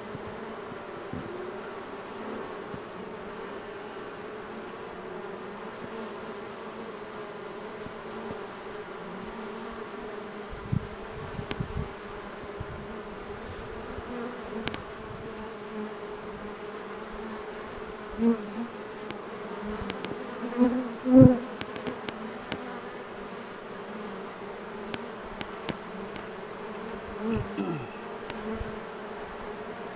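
A honeybee swarm humming steadily, the wings of many bees flying around a hive box as the swarm is drawn into it. A few louder, briefly rising and falling buzzes come as single bees fly close past, mostly in the second half.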